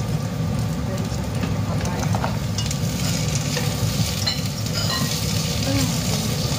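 Oil sizzling and crackling in a saucepan as diced papaya is added to sautéed ginger, garlic and onion and stirred with wooden chopsticks.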